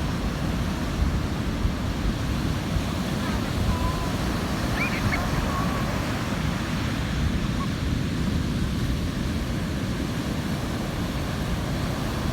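Ocean surf washing on the beach, under a steady rumble of wind buffeting the microphone.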